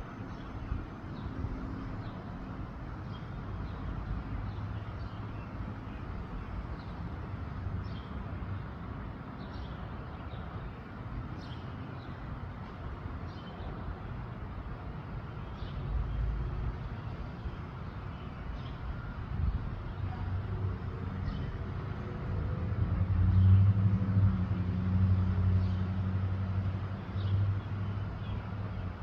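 A vehicle engine's low hum that builds to its loudest in the last third and then eases off, over a steady low rumble, with faint short high chirps scattered throughout.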